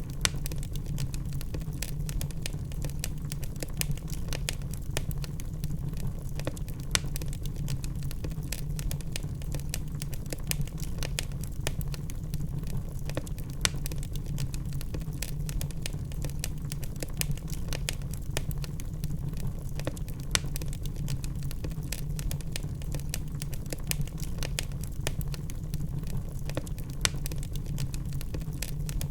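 Log fire burning in a fireplace: a steady low rumble with constant small crackles and pops, and a louder single pop about every six or seven seconds.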